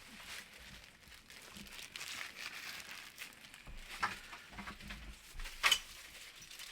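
Quiet rustling and handling noises with two sharp clicks, about four seconds and five and a half seconds in.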